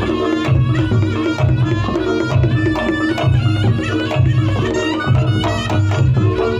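Reog campursari music played through a sound system: kendang drum strokes under a sustained melody line, in a steady rhythm without a break.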